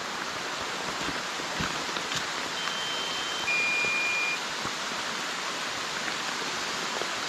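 Steady rushing hiss of rain or running water, with a two-tone electronic alert beep from the drone's remote controller about three seconds in: a higher tone, then a lower one.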